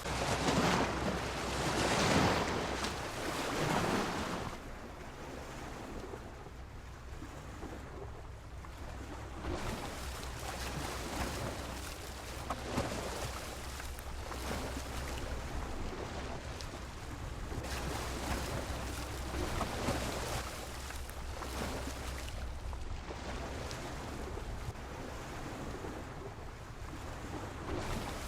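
Sea waves breaking against a pier, with a run of loud surging washes in the first few seconds, then a steadier wash of surf with smaller swells. A steady low rumble of wind on the microphone runs underneath.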